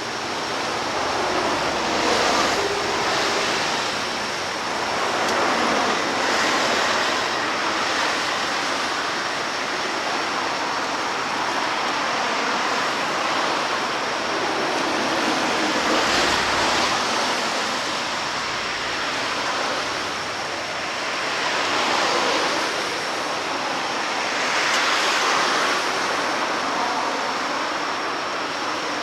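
Harbour waves washing in, a steady rushing hiss that swells and eases every few seconds.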